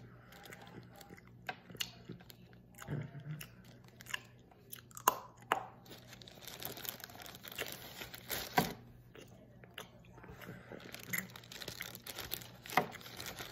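Close-up chewing of a SweeTarts chewy candy in the mouth, with irregular crunches and wet mouth clicks.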